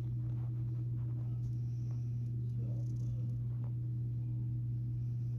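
A loud, steady low hum at one unchanging pitch, with a few faint ticks over it.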